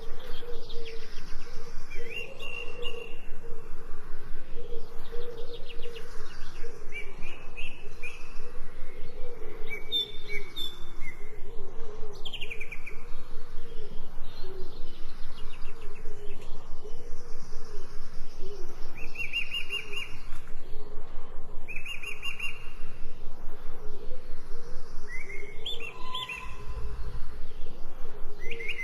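Birds chirping, short trilled calls every couple of seconds, over a steady, rapidly pulsing background.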